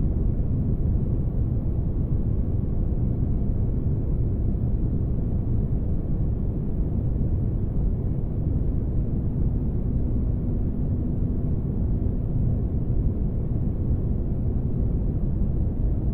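Spaceship ambience noise: a steady, deep, unchanging hiss-like drone weighted to the low end, with a faint hum running through it.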